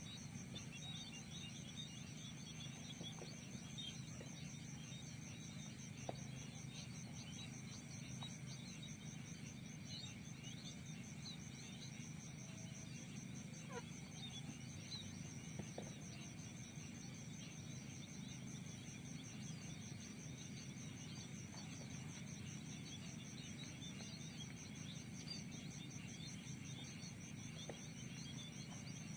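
Field insects, crickets, keep up a steady rapid pulsing trill. Many faint, short bird chirps are scattered across it, over a low steady background noise.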